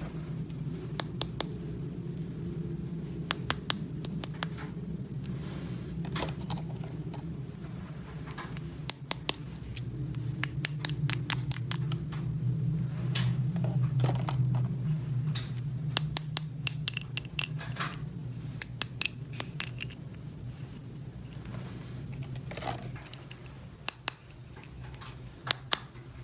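Small plastic toy pieces being handled, with irregular sharp clicks and taps over a steady low hum.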